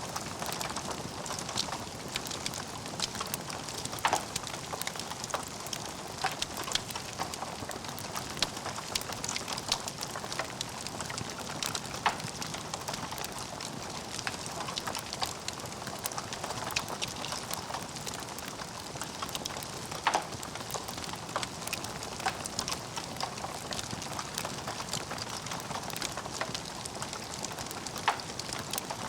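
Wood fire burning in a fireplace, crackling steadily with dense small crackles and a few louder pops.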